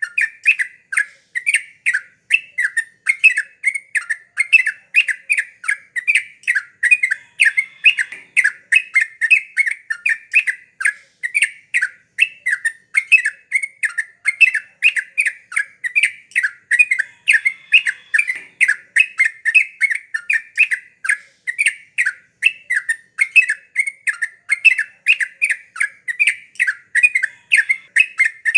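Yellow-vented bulbul (trucukan) calling without pause: a fast, bubbly chatter of quick notes, about three bursts a second.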